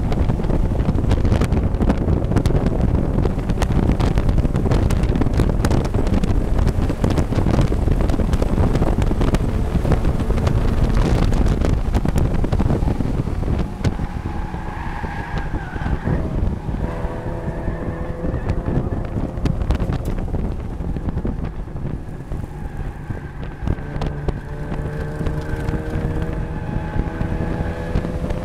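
Mazda MX-5 race car's engine and road noise heard from inside the car. About halfway through it quietens under hard braking, then the engine note climbs as the car accelerates again at full throttle.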